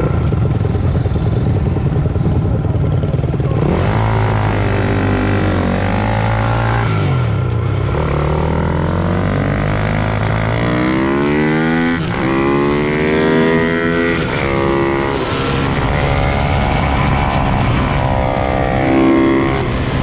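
Several pit bike engines revving hard and changing pitch as they race, the tones rising and falling with each throttle change and gear shift. One bike passes close about twelve seconds in, its pitch dropping as it goes by.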